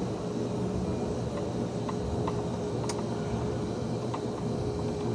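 Go-kart running with a steady hum and a faint constant tone, with a few light clicks over it.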